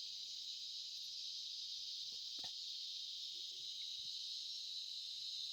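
Steady dusk chorus of insects such as crickets: a continuous high-pitched buzz, with a couple of faint ticks in the middle.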